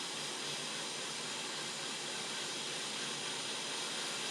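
Hot air rework station blowing a steady hiss of air onto a laptop motherboard to heat up the area.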